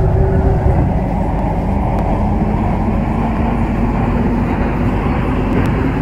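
MTR Kwun Tong line C-Train running along the track, heard from inside the train: a steady rumble of wheels and running gear with a faint whine that rises gently.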